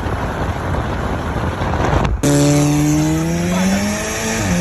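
A loud rushing noise, then, from just past the halfway point, a car engine accelerating hard with its pitch climbing steadily, dipping briefly near the end before climbing again.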